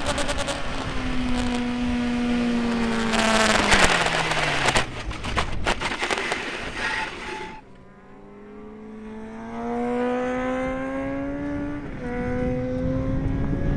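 Motorcycle engine on a race circuit, its revs falling as it slows, under heavy wind noise that cuts off suddenly about halfway through. The engine then pulls hard with revs climbing steadily, with a gear change near the end.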